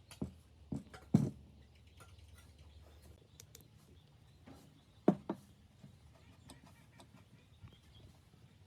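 A few sharp knocks and clicks of objects being handled. There are three in the first second and a half, the loudest about a second in, and a pair about five seconds in, with light ticking between.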